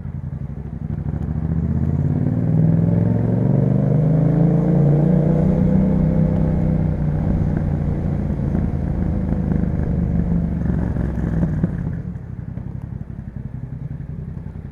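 2021 Yamaha MT-07's parallel-twin engine through an Akrapovič exhaust, pulling up through the revs for a few seconds, then easing off slowly. About twelve seconds in, the throttle closes and it drops to a quieter, lower note.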